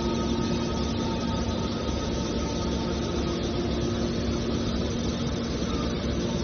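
Hydraulic power unit of a steel drum baler running: a steady motor-and-pump hum with a few held whining tones.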